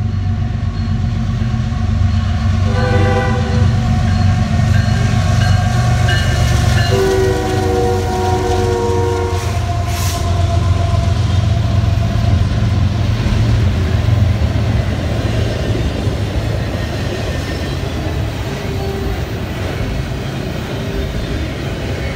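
Diesel freight train passing: the locomotive horn sounds twice, a short blast about three seconds in and a longer one about seven seconds in, over the engines' steady low rumble. Then the double-stack container cars roll by with a steady rumble of wheels on rail.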